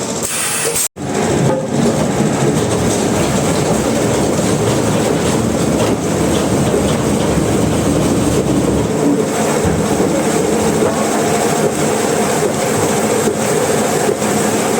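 Sawmill machinery running continuously, a loud dense mechanical noise with a rattling, rail-like clatter. It cuts out for an instant about a second in.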